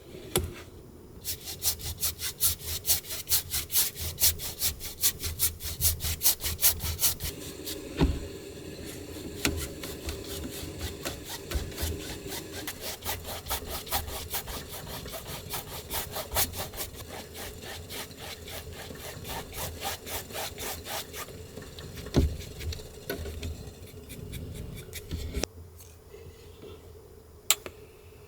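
Hand saw cutting firewood, steady back-and-forth strokes at about two to three a second, loudest at first and softer later, stopping after about twenty seconds; a few single knocks follow.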